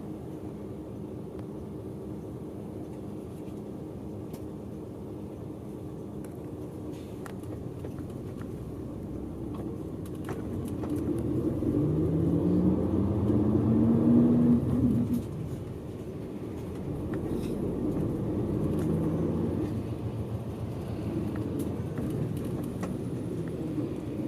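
Bus engine and road noise heard from inside the passenger cabin while driving. About halfway through, the engine note climbs as the bus accelerates and grows loudest, then falls away suddenly as it shifts or lifts off. It pulls up again briefly a few seconds later.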